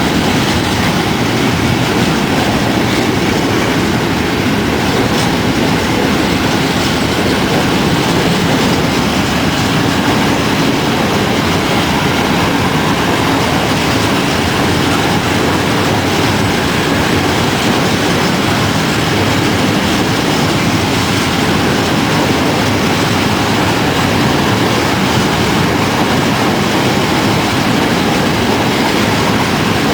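A train running past on the main line, with a loud, steady noise of wheels on the rails that does not let up.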